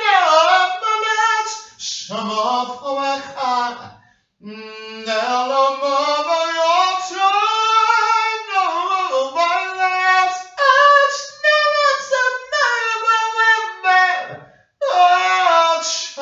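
One high voice singing without accompaniment, in long held notes that slide up and down in pitch, with a short break about four seconds in and another near the end.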